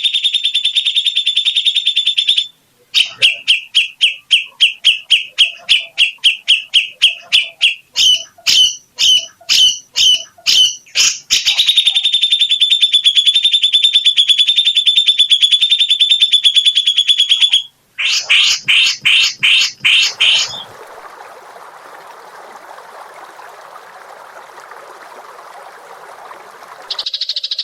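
Songbird singing in fast, evenly repeated high notes and rapid trills, with one long unbroken trill near the middle. About 20 seconds in, it gives way to a quieter, lower, noise-like rasp that lasts about six seconds.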